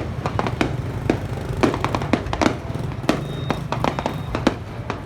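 Fireworks display: a rapid, irregular string of sharp bangs and crackles, several a second, over a steady low rumble.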